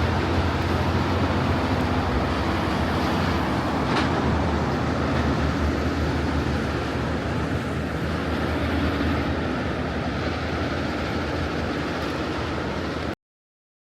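Heavy truck engine and road noise: a low, steady drone that slowly eases off, then cuts off abruptly near the end.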